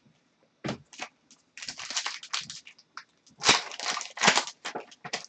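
Trading cards being handled and slid against one another: scattered single clicks and two longer spells of rustling, around two seconds in and again around four seconds in.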